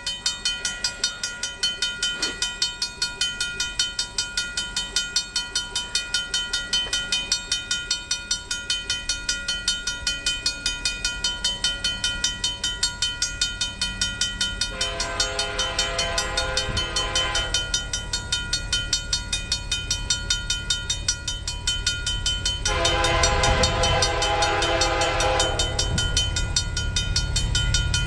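Grade-crossing bell ringing steadily at about three strokes a second while a train of GE diesel locomotives, led by a Dash 8, approaches. The lead locomotive's air horn sounds two long blasts, about eight seconds apart, and the low rumble of the diesel engines grows louder toward the end.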